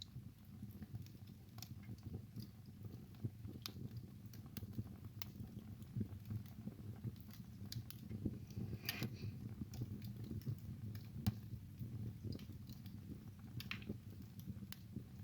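Wood fire burning in a fireplace: a steady low rumble with irregular crackles and pops of burning logs, one pop sharper and louder about two-thirds of the way through.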